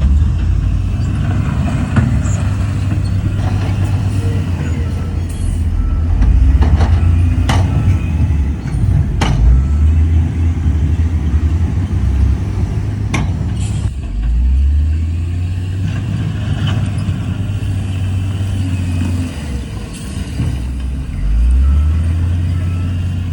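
Heavy diesel earthmoving machinery, a bulldozer and dump trucks, running steadily with a deep engine rumble that drops and climbs again about fourteen seconds in and near the end. A few sharp metallic knocks stand out, around a third and halfway through.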